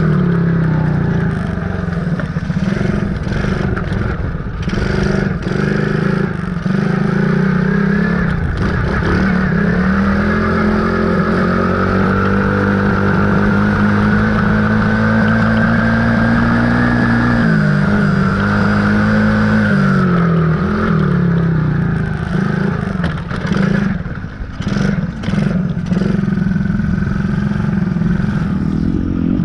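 Dirt bike engine running under way, its pitch rising and falling with the throttle; it is held high for several seconds in the middle, then drops off, picks up briefly, and settles back.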